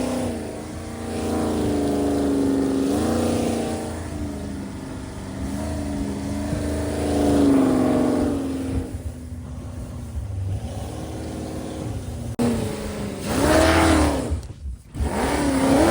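A high-performance engine revving hard, its pitch climbing and dropping back several times, with a lull in the middle before it rises again twice near the end.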